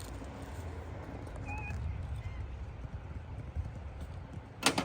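A cluster of sharp knocks near the end, pieces of cut wood knocking together, over a steady low rumble.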